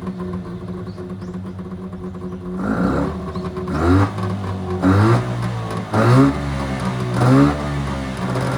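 Mitsubishi Minica 360 GSS's 360cc two-stroke twin with twin Solex carburettors, idling and then blipped five times in quick revs about a second apart before settling to a steady, faster idle.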